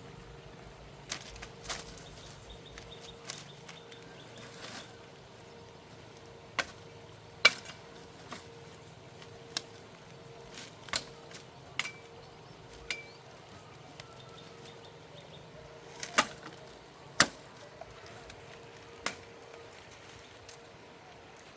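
A blade chopping into wood, cutting up a fallen tree for firewood: single sharp strikes at irregular intervals, about a dozen over the stretch, the hardest ones about seven seconds in and near seventeen seconds.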